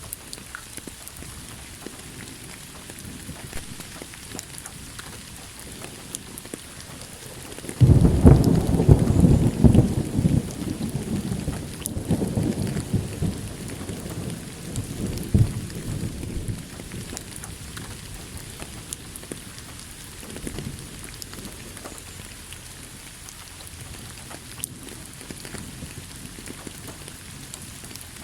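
Steady rain falling, with a loud thunderclap breaking in about eight seconds in and rumbling away over several seconds.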